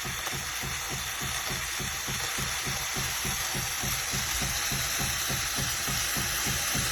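Philips 3300 Series automatic espresso machine dispensing a drink: its pump runs with a steady hiss and an even low throb of about six pulses a second.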